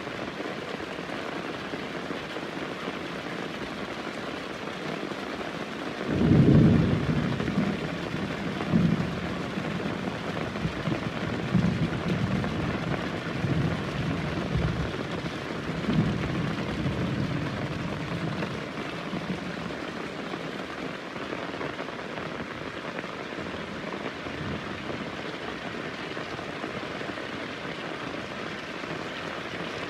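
Heavy rain falling steadily, with a clap of thunder about six seconds in that breaks sharply and then rolls on in low rumbles for about fifteen seconds before dying away under the rain.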